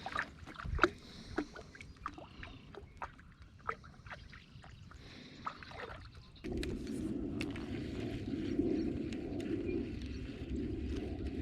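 Scattered small clicks and taps of gear being handled aboard a fishing kayak. About six seconds in, a steady low rushing noise sets in and continues.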